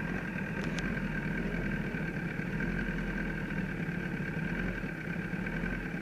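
Kawasaki ZX10R's inline-four engine idling steadily, with a steady high whine alongside.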